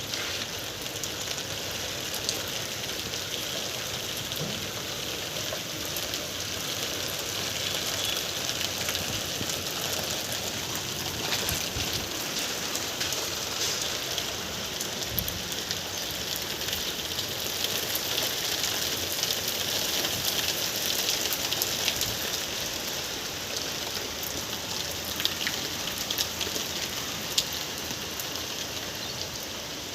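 Steady rain falling, a dense even hiss with many small drop ticks and a few louder single drips.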